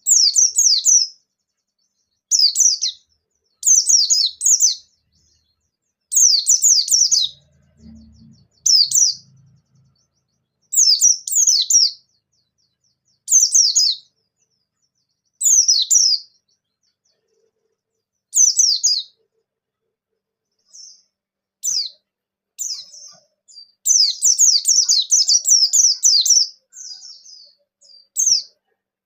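Pleci (white-eye) singing in fast, high twittering phrases about a second long, repeated every two seconds or so, with a longer unbroken run of song near the end.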